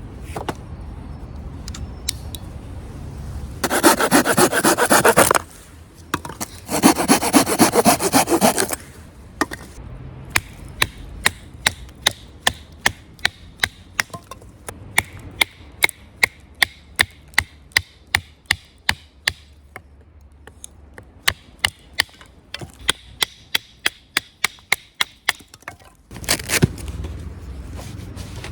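Wood being cut for a campfire: two short spells of sawing, then a long run of sharp, regular wooden clicks, about two a second, with another spell of rasping near the end.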